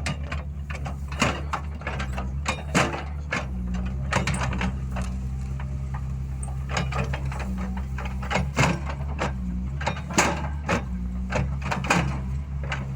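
Road-repair machinery with its engine running steadily, overlaid by frequent irregular metallic clanks and knocks.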